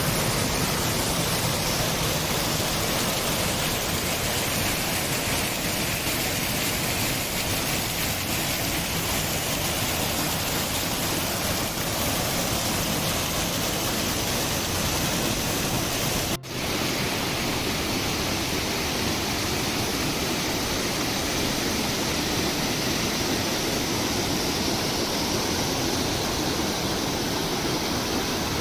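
Steady rush of water from a waterfall, an even hiss-like roar that holds at one level. It cuts out for an instant about sixteen seconds in and resumes at once with a slightly different tone.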